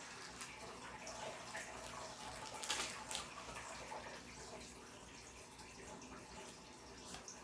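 Faint rustling of trading cards being handled and shuffled, with a couple of short, louder rustles about three seconds in.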